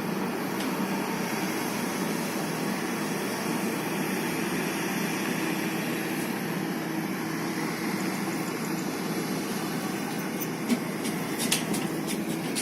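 A large engine running steadily at idle, a constant low hum, with a few sharp clicks near the end.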